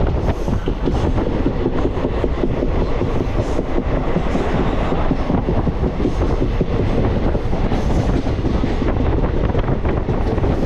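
Train running along the track: a steady loud rumble with many quick clicks of wheels running over the rails.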